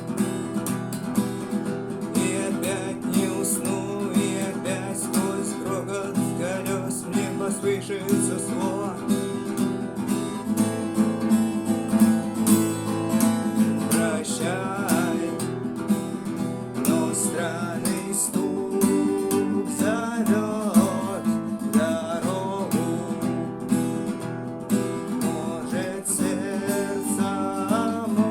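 Acoustic guitar strummed in a steady rhythm, playing the chords of a song.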